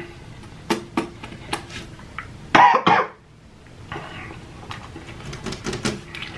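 A person eating close to the microphone: chewing and lip-smacking clicks, with two loud, quick coughs close together about two and a half seconds in.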